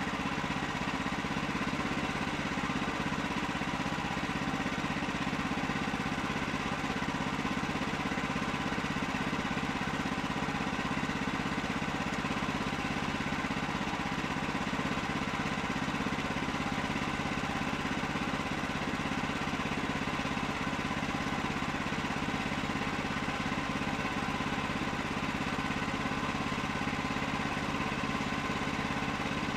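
An engine running steadily at a constant speed, with no change in pitch or load.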